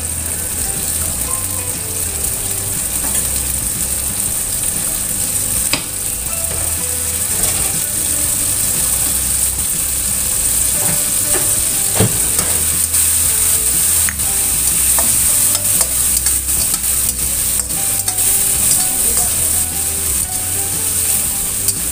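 Sliced chilies, shallots and garlic sizzling in hot oil in a stainless steel wok, a steady frying hiss. Scattered clicks of a metal turner scraping and tapping the wok become more frequent in the second half as the stirring picks up.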